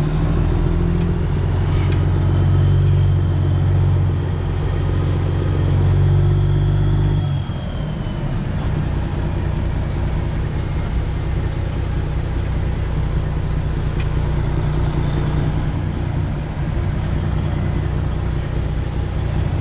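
Semi truck's Detroit Diesel 12.7-litre Series 60 engine pulling under throttle for about seven seconds, then suddenly dropping back to a lower, steady idle while the truck is repositioned at a dock.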